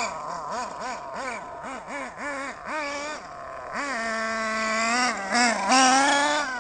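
Two-stroke SH .18 glow (nitro) engine of a 1/8-scale RC buggy running, the throttle blipped over and over so the pitch rises and falls about twice a second. Midway it holds at a steady higher pitch for a moment before more quick blips near the end.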